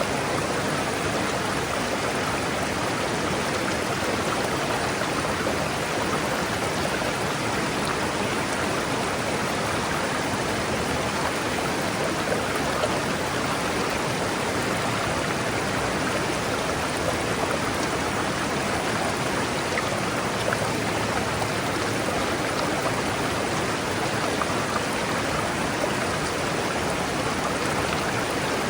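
River water rushing steadily over rocks, a constant even rush of flowing water.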